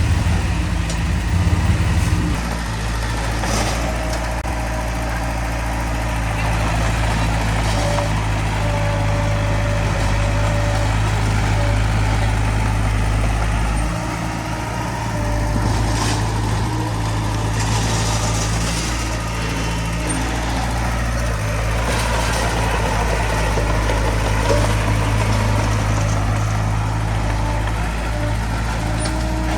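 Diesel engines of heavy earthmoving machinery, a bulldozer and dump trucks, running steadily, with a few knocks.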